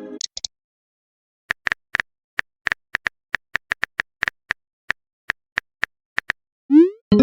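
Phone keyboard typing sound effect: a string of short, sharp clicks, irregularly spaced at about three or four a second. Near the end comes a rising swoop, the start of a message-sent sound.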